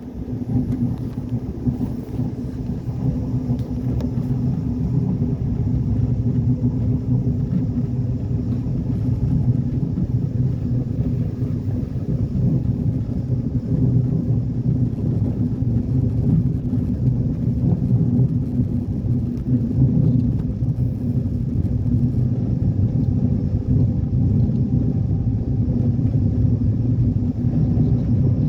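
Steady low rumble of a train in motion, with no distinct clicks or changes.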